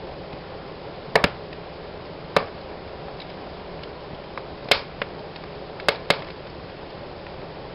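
Fire burning in a fireplace: sharp crackles and pops at irregular moments, a close pair at a time, over a steady hiss of the flames.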